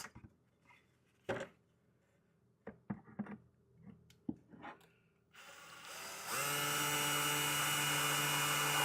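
Cordless screw gun driving a small wood screw into cedar. A few light clicks and taps of handling come first. About five seconds in the motor spins up with a rising whine, then runs steadily for about three seconds as the screw goes in easily.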